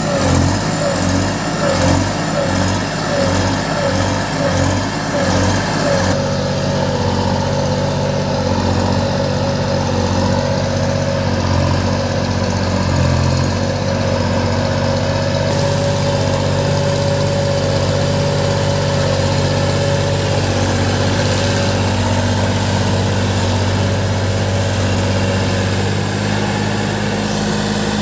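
Tractor engine running, pulsing evenly for the first several seconds and then running more steadily.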